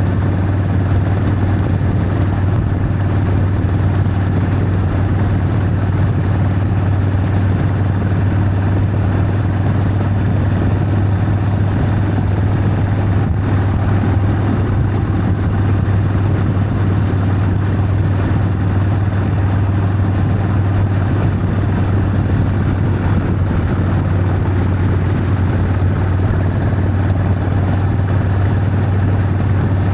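Harley-Davidson Sportster V-twin engine running steadily while the motorcycle cruises, with an even engine note and no revving or gear changes.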